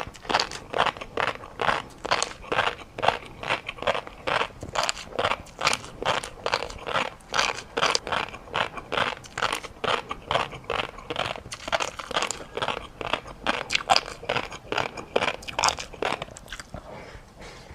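A person chewing crunchy food close to the microphone, with crisp crunches coming about two to three times a second that ease off briefly near the end.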